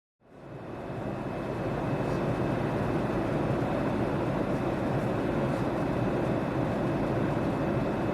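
Steady cabin noise of a Boeing 767-400ER in cruise, the rush of airflow and engines, fading in over the first couple of seconds. A faint, steady high tone sits above it.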